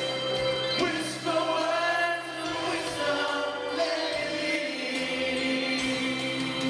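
A choir singing long, held chords in harmony, the chords changing every second or so.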